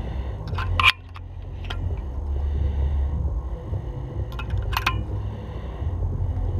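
A few sharp metallic clinks, about a second in and again near five seconds in, over a steady low rumble.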